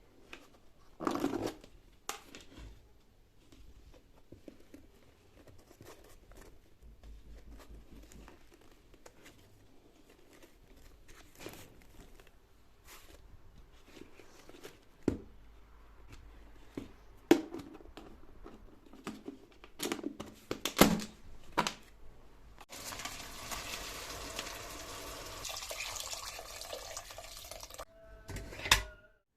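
Household handling sounds: scattered knocks, clicks and rustling, then a steady rushing hiss for about five seconds near the end that stops suddenly.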